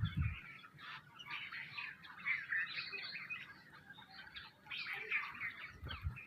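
Many small birds chirping and chattering at once, a dense overlapping twitter, with a low thud at the start and another near the end.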